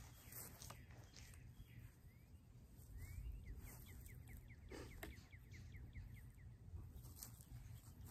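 Faint outdoor quiet with a low rumble; about three seconds in, a bird trills for a few seconds, a rapid run of short rising chirps at about four a second. A couple of soft knocks come in the middle.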